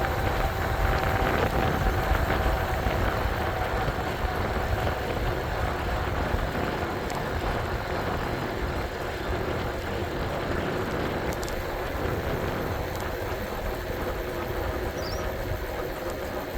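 Steady wind and road noise from riding an e-bike along a road with traffic, with a faint short chirp near the end.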